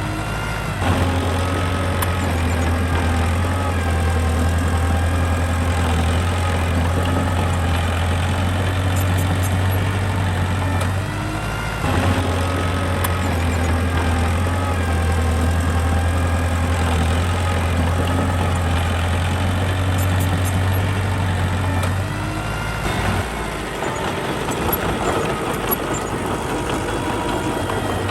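Diesel engine of a construction machine running steadily. Its pitch shifts briefly three times as the revs change: about a second in, near the middle and a few seconds before the end.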